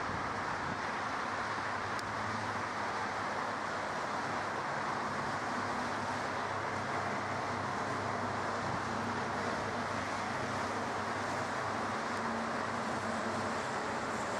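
Steady distant engine noise: an even hiss with a low hum underneath, neither rising nor falling.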